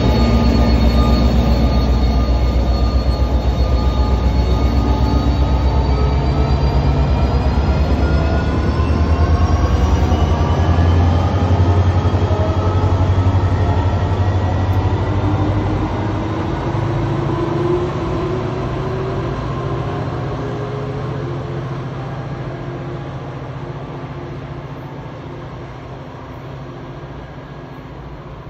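Passenger-train locomotive moving past close by and pulling away along the platform. A deep engine drone and several whining tones slowly shift in pitch while the sound fades steadily as the train recedes.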